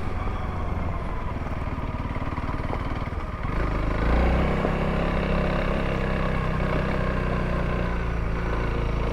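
Honda CRF300L's single-cylinder four-stroke engine running while the bike is ridden, growing louder about three and a half seconds in and then holding steady.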